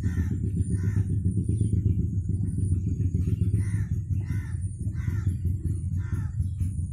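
Short, harsh bird calls repeated every half second to a second, over a steady low rumble that is the loudest sound throughout.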